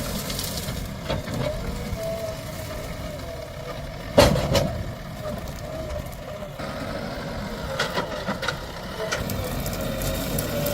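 JCB 3DX backhoe loader's diesel engine running under work with a wavering whine. There is one loud clank about four seconds in and a few lighter knocks later on.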